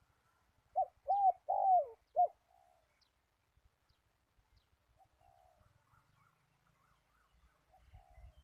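A dove cooing: a phrase of four short arched notes about a second in, followed by fainter coos later.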